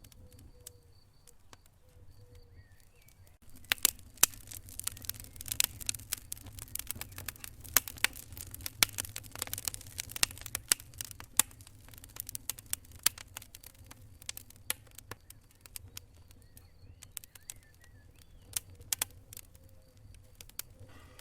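Wood fire in a fireplace crackling, with many sharp pops and snaps that start about three seconds in, come thickest for the next several seconds, then thin out. Faint chirping like a cricket is heard at the start and again later.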